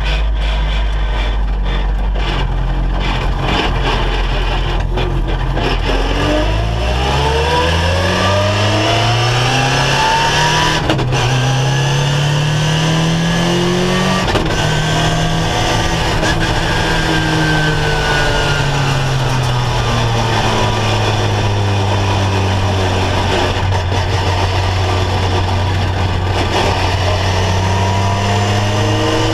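Ginetta G40 race car's engine heard from inside the cockpit. It runs low and steady for the first few seconds, then climbs in revs with two sudden drops as it changes up, about eleven and fourteen seconds in. It then rises and falls gently and settles to a steady drone near the end.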